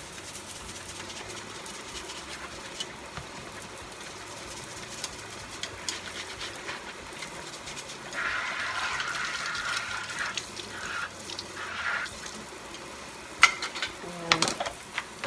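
Kitchen tap running steadily into a sink during hand dish-washing, the water hiss getting louder for a few seconds in the middle as it splashes on what is being washed. Near the end, a few sharp knocks of dishware against the sink.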